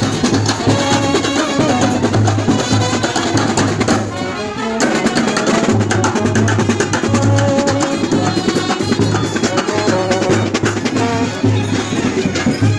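Loud live procession music: rapid, dense drumming with wind instruments playing a melody over it.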